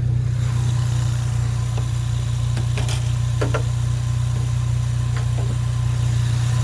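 2015 Ford Mustang EcoBoost's turbocharged 2.3-litre four-cylinder idling with a steady low hum, with a couple of faint clicks about three seconds in.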